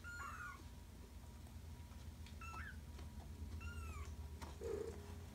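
Young kitten meowing three times: short, high-pitched calls that arch up and fall away, with a fainter lower call near the end.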